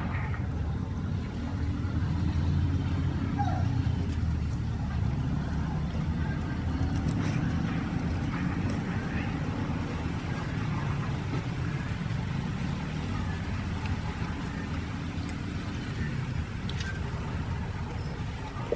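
Steady low rumble of vehicle noise, with faint scattered clicks over it.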